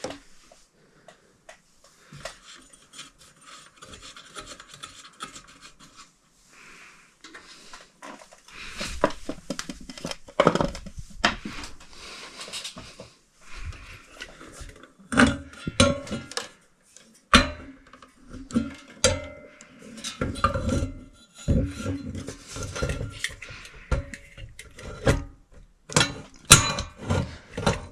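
Hand work on metal mounting hardware: irregular scraping, clinks and sharp knocks, starting after a quiet first eight seconds or so.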